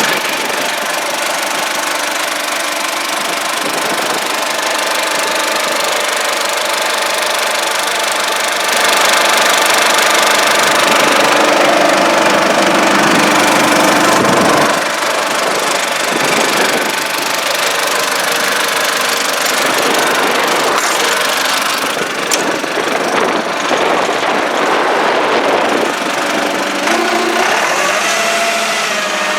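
John Deere 5500 tractor's diesel engine running steadily, louder for several seconds in the middle.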